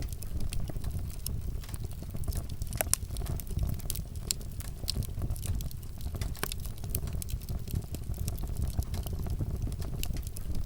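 Wood fire burning: a steady low rumble of flame with frequent sharp crackles and pops of burning wood.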